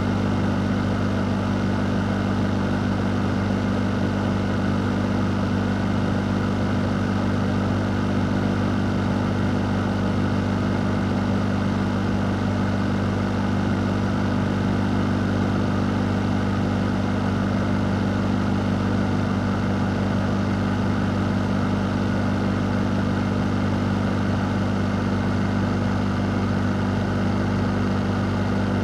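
Electric fan running steadily: a low motor hum under an even rush of air, unchanging throughout.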